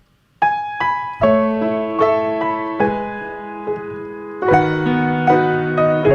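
Solo piano music starting about half a second in: a gentle melody of single notes over held chords and low bass notes.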